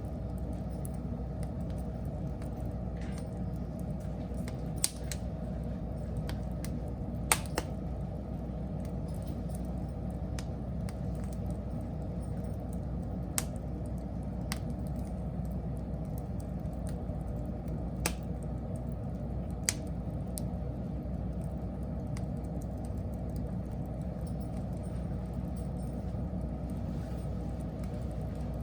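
Wood fire burning with a steady low rumble, broken by scattered sharp crackles and a handful of louder pops.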